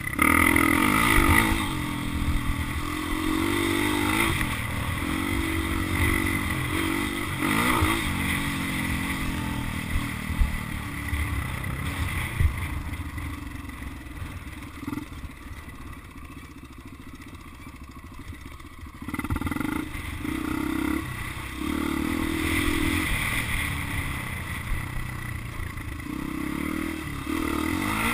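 Motocross bike engine revving up and falling back again and again as it rides, dropping to a quieter, low running stretch about halfway through before revving up again.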